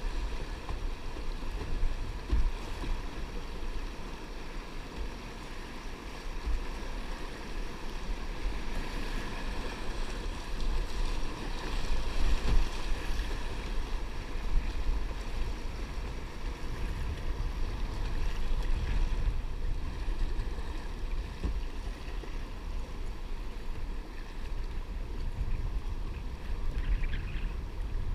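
Wind rumbling on the microphone over a steady wash of water, as heard from a kayak on the water.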